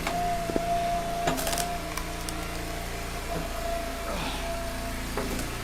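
Engine-driven log splitter running steadily with a constant whine, and a sharp knock or crack about a second and a half in as wood is split.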